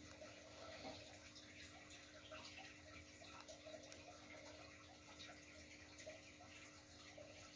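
Near silence: a faint hiss with scattered soft, high chirps from small cage birds.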